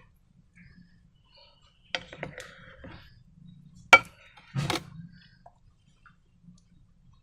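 Hard containers and tools being handled: a few sharp clicks and knocks, the loudest a single sharp click about four seconds in, with softer rustling between them.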